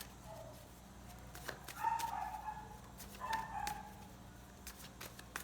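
Two short animal calls in the background, each about half a second long, around two and three and a half seconds in, over a few light clicks and rustles of tarot cards being handled.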